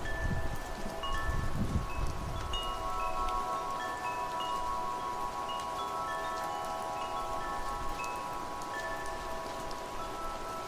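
Wind chimes ringing, with many overlapping notes that each sustain for several seconds, over a steady hiss of rain. Low gusts of wind rumble in the first couple of seconds, then ease off.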